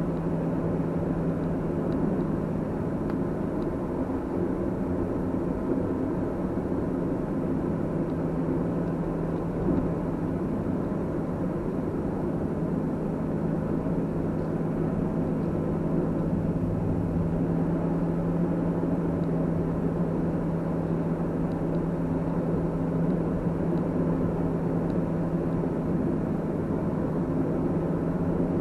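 Car driving along: steady engine and tyre noise with a constant low hum, unchanging throughout.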